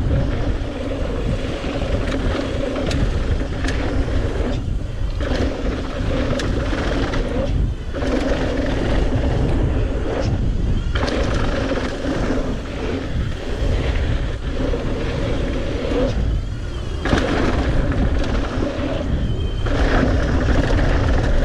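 Mountain bike ridden fast down a dirt jump trail: tyre and bike noise, with a steady hum that drops out briefly every few seconds. Heavy wind rumble on the microphone runs under it all.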